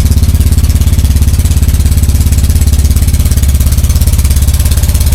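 Tour boat's engine running steadily under way, a loud low throb with a fast, even pulse and a hiss of wind and water above it.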